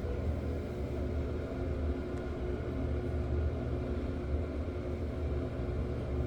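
First-generation Loren Cook exhaust fan running steadily on its original motor: a constant low hum and rumble, with a few faint steady tones above it.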